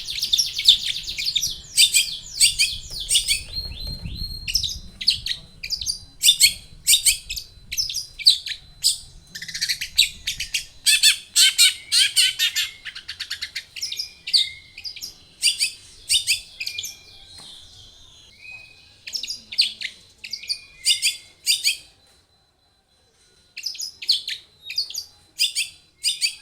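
Long-tailed shrike (cendet) singing in a fast stream of sharp, high chattering notes, which breaks off briefly near the end and then resumes.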